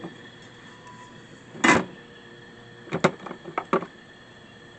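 Short knocks and clunks of objects being handled: one about a second and a half in, then a quick run of four or five around three seconds in.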